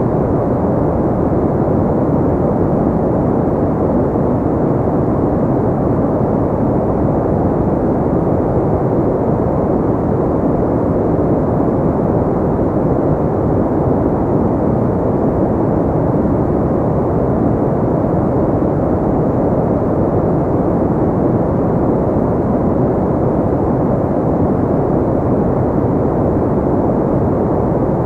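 Steady, unchanging sleep noise of the kind sold as white noise, here deep and even, with its energy low and mid-range and nothing above the upper middle.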